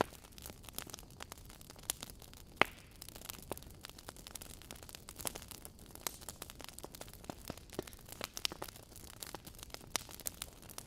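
Burning wood logs crackling in a fireplace: dense, irregular snaps and pops over a soft hiss, with a louder pop about two and a half seconds in.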